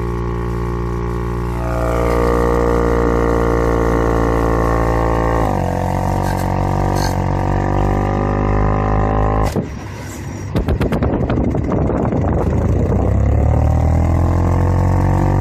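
Car air vent droning loudly: a low, steady drone with many overtones whose tone shifts. About two-thirds of the way through it breaks into a fluttering rattle for a few seconds, then settles back into the drone as its tone rises.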